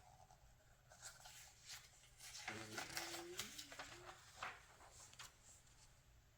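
Faint rustling and flicking of glossy magazine pages being turned by hand, busiest through the middle few seconds, with a brief wavering low squeak partway through.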